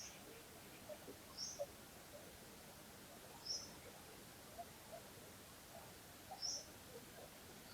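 A bird giving short, high single chirps, five of them spaced one to three seconds apart, over a faint, steady background hiss.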